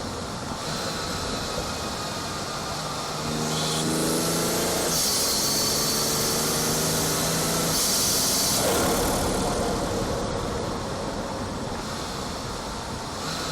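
BMW 440i's turbocharged B58 inline-six heard through a front-mount intake, cruising and then pulling harder about three seconds in, its pitch climbing under a loud intake and turbo whoosh. After about five seconds the whoosh cuts off and the engine eases back to a steady cruise.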